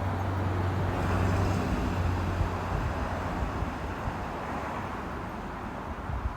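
1997 Dodge 2500's 12-valve Cummins diesel running through a 4-inch straight pipe, with a steady low drone that fades after about three seconds. It is warming up from a cold start at around 10°, with the block heater not plugged in.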